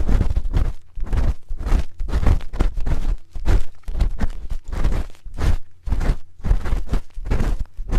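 A spoon scraping and rubbing right against the microphone in a steady run of short scratchy strokes, about two or three a second, each with a heavy low rumble.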